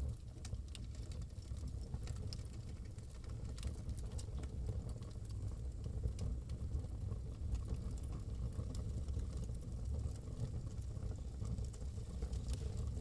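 Wood fire crackling in a fireplace: scattered sharp crackles and pops over a low, steady rumble.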